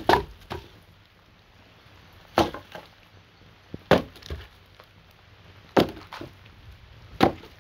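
Firewood being broken up: five sharp wooden cracks, about one and a half to two seconds apart, some followed by a smaller crack.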